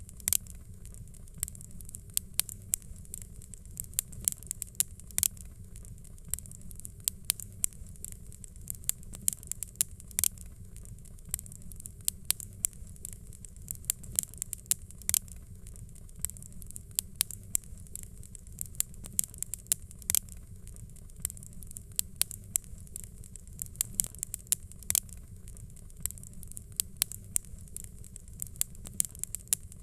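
Wood fire crackling: many irregular sharp pops and snaps, several a second, over a low steady rumble.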